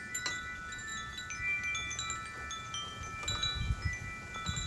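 Wind chimes ringing, many metal tones struck at irregular moments and ringing on over one another. A low rumble swells near the end.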